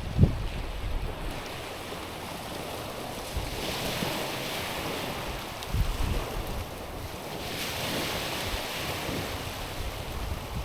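Small waves washing in over a stony, pebbly shore, swelling into a hissing wash about four seconds in and again near eight seconds. Gusts of wind buffet the microphone now and then.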